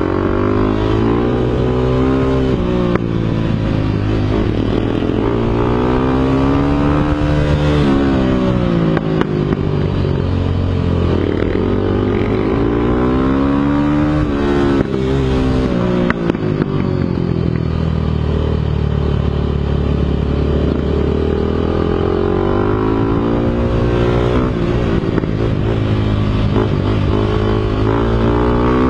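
Motorcycle engine running continuously under riding load, its pitch climbing and dropping every few seconds as it revs up and eases off.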